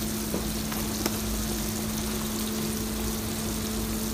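Tomato gravy sizzling in a black iron wok on the stove, under a steady low hum, with a couple of faint clicks in the first second or so.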